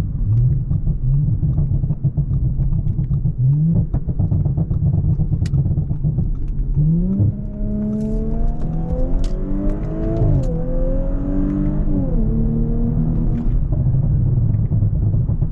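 Audi S5 engine accelerating hard: the revs climb from about seven seconds in, drop sharply with a gear change, climb again and then fall back to a steady cruise. The driver took the pull to be held back by traction control limiting power.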